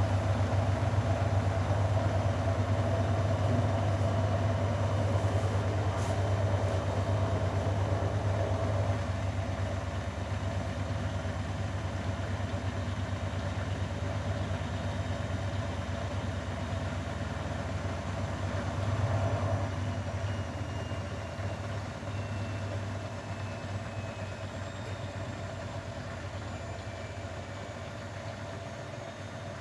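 Grundig washing machine running with a steady low hum that slowly fades.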